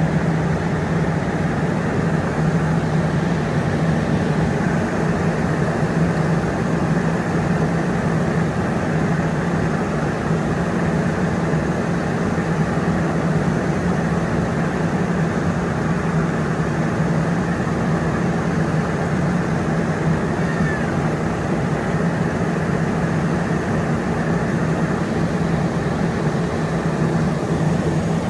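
A large engine, most likely a fire engine's diesel, running steadily: a constant low drone with a strong hum and no change in pace.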